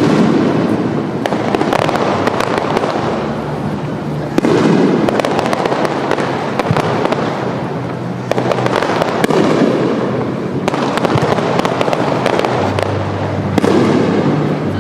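Aerial fireworks bursting in a dense display: continuous crackling and booming, with a fresh loud burst about every four seconds.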